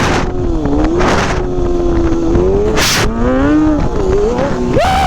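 Sportbike engine under the rider's throttle, its revs rising and falling unevenly, with a sharp rev rise and drop near the end. Short gusts of wind noise hit the microphone several times.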